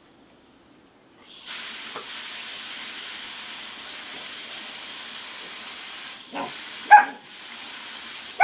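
German Shepherd puppy barking three times near the end, the middle bark the loudest, over a steady hiss that starts about a second and a half in.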